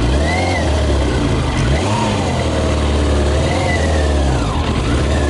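Yamaha YZF 600R's inline-four engine running on 40% whisky instead of petrol, its revs rising and falling several times as it is ridden. It misfires a little and makes little power on the alcohol fuel.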